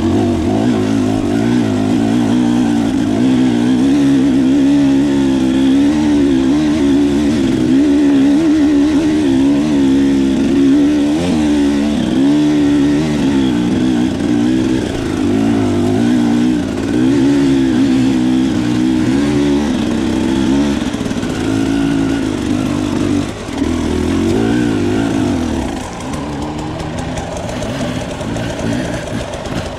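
Enduro dirt bike engine heard from the bike being ridden, its note rising and falling constantly with the throttle. About 26 seconds in it settles to a lower, steadier note as the bike eases off.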